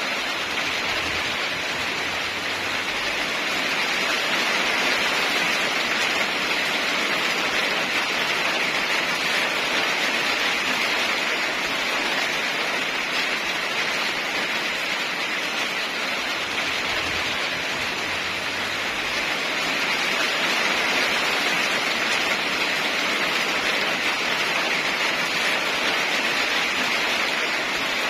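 Heavy rain falling in a steady, dense hiss that swells slowly louder and softer.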